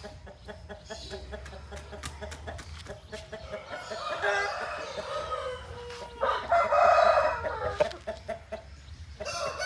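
Aseel chickens clucking in short repeated calls, and a rooster crowing loudly about six seconds in, held for over a second.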